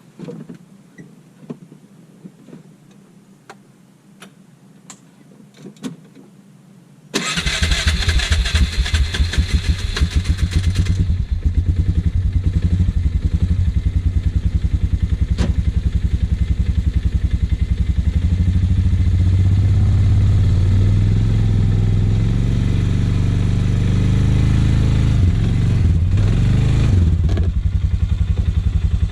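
A few light clicks and knocks, then an ATV engine starts about seven seconds in. It runs harsh for a few seconds, then settles into a steady, pulsing run.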